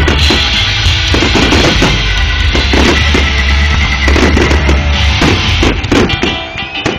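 Dense barrage of aerial fireworks shells bursting in quick succession, many booms overlapping over a deep rumble, with a brief lull about six seconds in.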